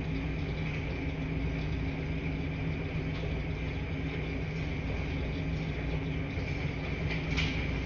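Laundry-room washing machines running with a steady low hum and rumble, a steady higher whine over it. A brief clatter about seven seconds in.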